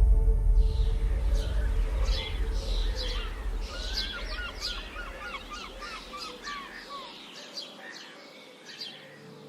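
Small birds chirping and singing, several calls overlapping, with a quick run of repeated rising-and-falling notes in the middle. A loud low rumble underneath fades away over the first seven seconds.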